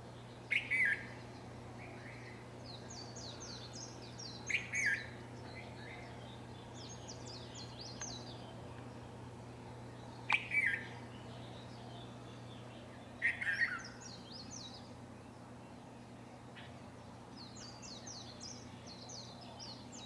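Birds calling in the early morning. A loud, short, falling call comes four times, a few seconds apart, with quicker high-pitched chattering notes between them. A faint steady low hum runs underneath.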